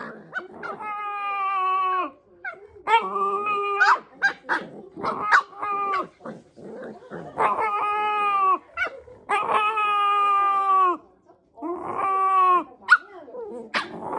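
Shiba Inu making strange vocal sounds: a run of long drawn-out pitched calls, each a second or two long, with short breaks and a few shorter yelps between them.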